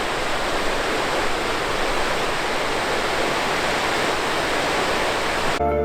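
Creek water rushing steadily over rocks in a desert canyon stream. It cuts off abruptly just before the end, where background music begins.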